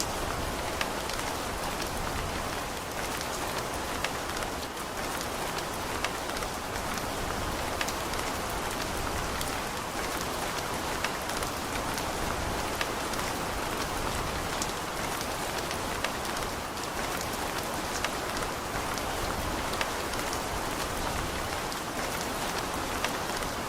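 Steady rain falling, an even hiss with many sharp individual drop taps scattered through it.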